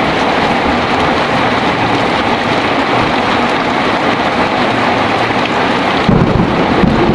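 Heavy rain pouring steadily, with a low rumble of thunder breaking in suddenly about six seconds in.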